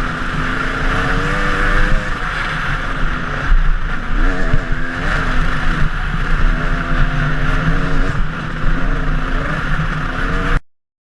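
KTM enduro dirt bike engine revving up and falling back again and again as the bike is ridden, heard through a GoPro with a constant rush of wind noise. The sound cuts off abruptly near the end.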